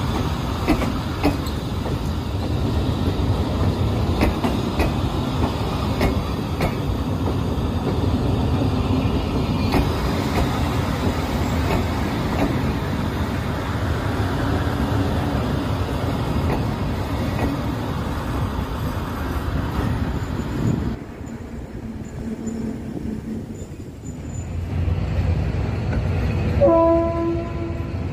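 Passenger train rolling along the rails at a station, a steady low rumble with scattered clicks from the wheels. The sound drops away suddenly about three quarters of the way through, then a train's rumble builds again and a short train horn blast sounds near the end.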